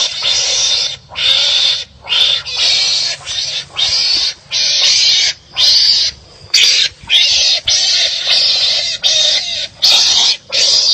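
Wild animals barking harshly at each other in a fight, one rough call after another at about one a second.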